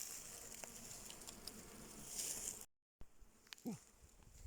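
Faint buzzing of flying insects, with a few small clicks, cut off sharply a little under three seconds in.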